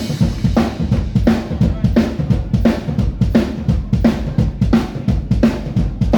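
A drum kit playing a steady beat, with snare-like hits about every 0.7 s over bass drum and cymbal.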